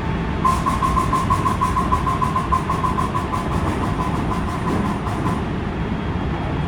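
Rapid 'ka, ka, ka' clacking from under the floor of a JR West 223 series 1000 train, several clacks a second, starting about half a second in and stopping after about five seconds, over the train's steady running noise. It sounds like an air compressor, and the uploader has heard it may come from air filling at a different rate when the unit is coupled to a 225 series, though the true cause is unknown.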